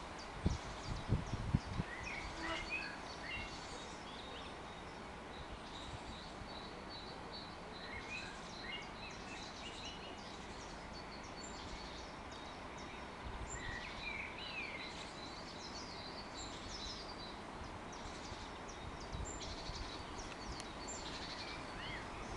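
Small songbirds chirping and singing in short, scattered phrases over a steady outdoor hiss.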